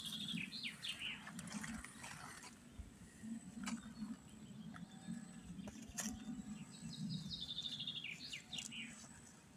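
A songbird singing outdoors: quick runs of high chirps falling in pitch, once at the start and again near the end. A couple of sharp clicks fall in between, over a low steady rumble.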